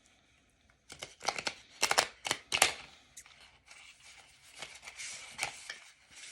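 A deck of oracle cards being shuffled and handled by hand: a quick run of sharp card snaps and flicks, then a steady papery rustle as the cards slide.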